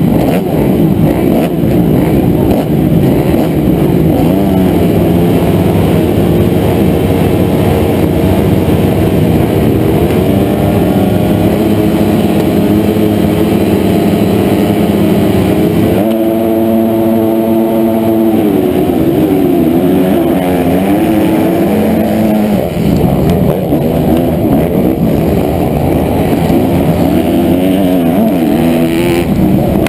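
Honda CRF250R motocross bike's single-cylinder four-stroke engine, heard close up from an onboard camera, revving hard and rising and falling in pitch again and again as the rider works the throttle and gears, with a briefly steadier note about halfway through.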